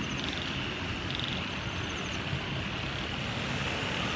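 Steady low rumbling outdoor noise, with short trills of high, rapidly pulsed calls from small animals every half second or so.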